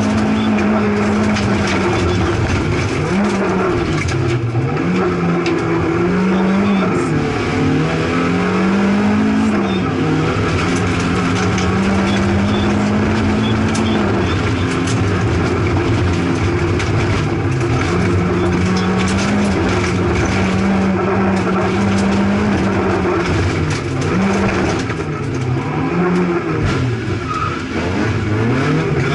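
Opel Astra GSI rally car's engine heard from inside the cockpit, held at high revs for long stretches. Its pitch drops and climbs again several times at gear changes and lifts for bends, over steady noise of tyres on the loose gravel road.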